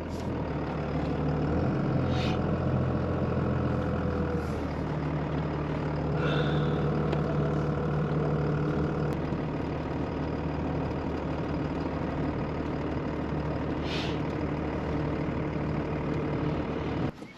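A vehicle engine running steadily at an even pitch, cutting off abruptly near the end.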